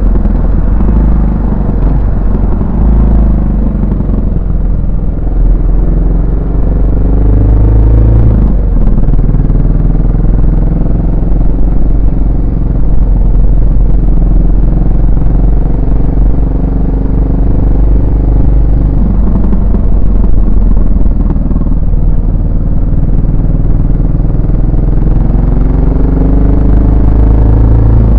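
Exhaust of a Yamaha SR400's air-cooled single-cylinder four-stroke engine while riding: the note rises several times as the bike accelerates through the gears, with steadier cruising stretches between.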